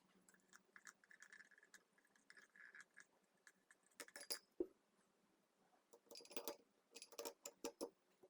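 Small metal engine parts clicking and clinking against each other as they are handled, with a few sharper clinks about four seconds in and a cluster near the end.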